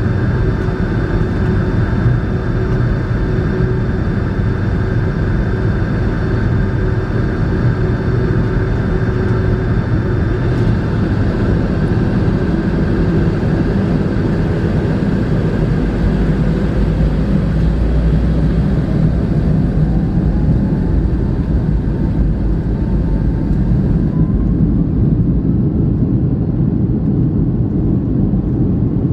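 Boeing 757-300 airliner heard from inside the cabin: a steady, loud rumble of jet engines and airflow. From about halfway through, a tone slowly rises in pitch.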